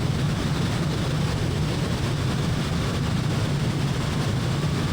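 Steady drone of a light piston-engine propeller airplane, heard from inside the cockpit, with a strong low hum and an even rushing noise above it.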